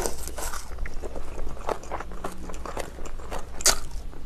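A person chewing a mouthful of spicy napa cabbage kimchi with rice wrapped in laver: irregular crisp crunches and wet mouth clicks, with one louder crunch near the end.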